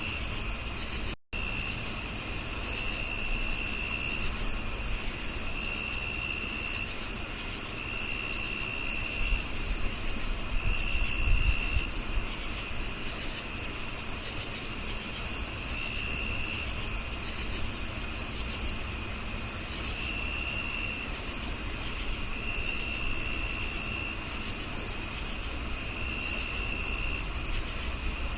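Crickets chirping in chorus: a steady high-pitched trill under regular chirps about three a second, with lower trills of about a second coming every two to three seconds. The sound cuts out for an instant about a second in.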